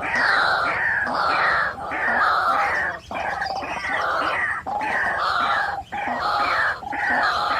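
White-breasted waterhen calling loudly, a repeated croaking series in phrases of about a second, with brief breaks between them.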